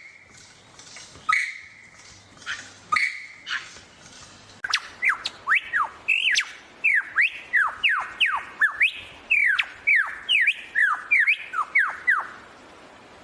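A bird calling: a few separate harsh calls, then, about four and a half seconds in, a quick run of falling whistled notes, about two a second, that stops shortly before the end.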